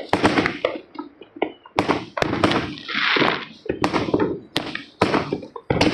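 Fireworks and firecrackers going off in quick succession: irregular sharp bangs and pops, with a short hissing burst about three seconds in.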